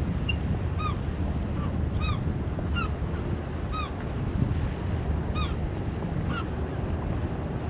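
A bird giving short, arched honking calls, repeated irregularly about once a second, over a steady low rumble of wind and water.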